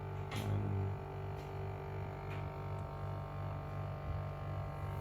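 A low steady hum, with a few faint clicks about once a second in the first half.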